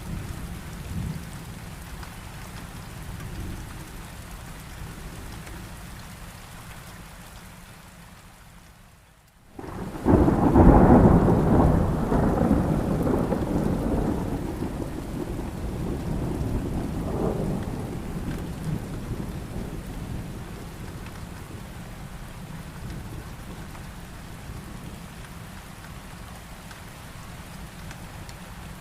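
Steady heavy rain. About ten seconds in, the rain briefly drops out, then a loud clap of thunder breaks in and rolls, rumbling and slowly fading back into the rain over about ten seconds.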